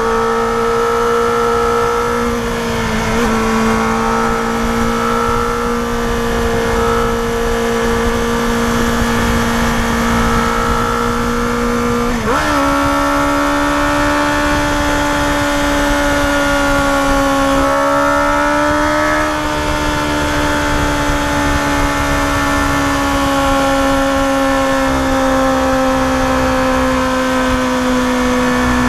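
Yamaha FZR250R's high-revving 250 cc inline-four engine running hard at high rpm, a steady high-pitched note with wind rush around it. About twelve seconds in the pitch jumps up sharply, then sags slowly as the climb goes on.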